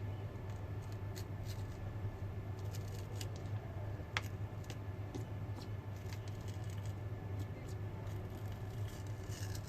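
Faint clicks and light scraping of small repair tools working on a phone's plastic back cover, with one sharper click about four seconds in, over a steady low hum.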